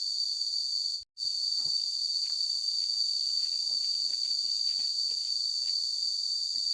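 Insects, crickets or similar, trilling steadily in one high pitch, with a split-second gap about a second in. Faint light taps and knocks sound underneath.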